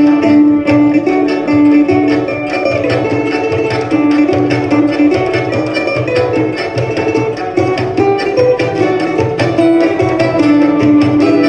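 Live ensemble music: plucked string instruments playing a melody over fast hand-drum percussion.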